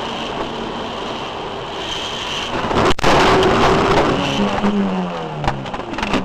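Car driving, with steady road and engine noise. About three seconds in there is a sharp bang, after which the noise is louder and rougher, with a wavering tone around the fifth second.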